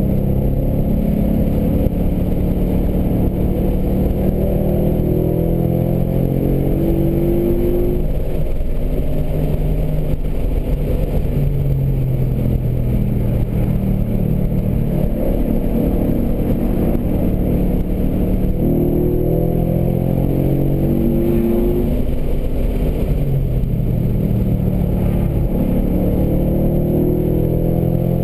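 The 2012 Mustang GT's 5.0-litre V8, heard from inside the cabin under hard track driving. It rises in pitch under acceleration and drops back several times.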